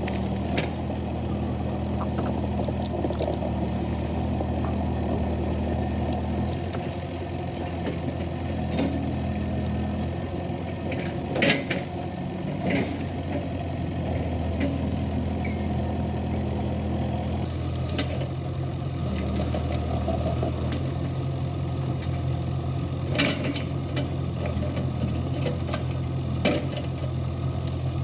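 Kubota KX71-3 mini excavator's diesel engine running steadily, its pitch stepping up and down a few times, with several sharp metallic knocks, the loudest about halfway through.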